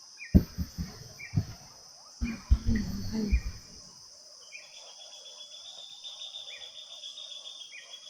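Forest insects droning steadily, with a second trilling insect joining about halfway, and short bird chirps every second or two. In the first half, two quick clusters of knocks and thumps stand out louder than the rest.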